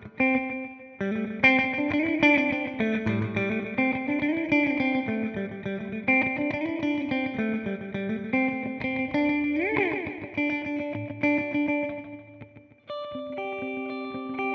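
Clean electric guitar (Fender Jazzmaster) played through a TC Electronic Flashback delay pedal: picked melodic phrases with overlapping echo repeats. A note is bent up and back down about two-thirds of the way through. After a brief drop near the end, a new phrase starts.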